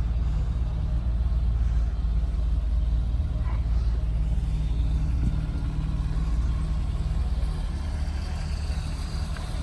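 Wind buffeting the phone's microphone: a steady low rumble.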